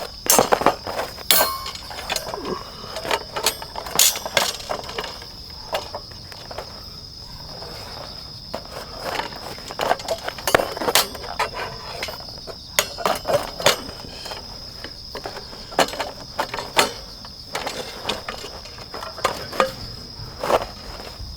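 Insects trill steadily and high-pitched throughout. Over this come scattered knocks, clicks and clatter from camp gear being handled and set up.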